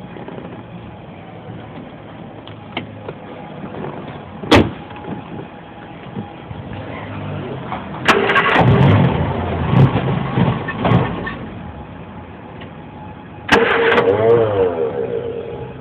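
Old open-top car's engine being cranked by its starter in two tries, one of about three seconds from about eight seconds in and a shorter one near the end, falling back each time without running on. A sharp click about four and a half seconds in, over a steady low hum.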